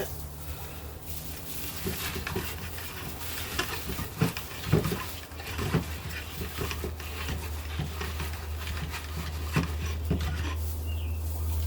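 Dry grass hay rustling and crackling in irregular bursts as it is stuffed by hand into a small wooden birdhouse, over a steady low hum.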